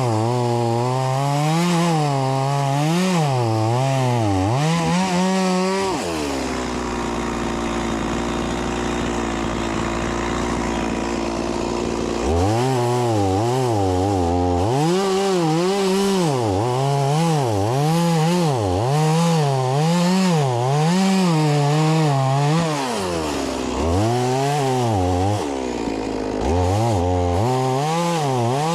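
Stihl MS 180 two-stroke chainsaw cutting firewood logs, its engine pitch wavering up and down as the chain bites. About six seconds in it drops back to a steady idle for some six seconds, then cuts again, with two brief idles near the end.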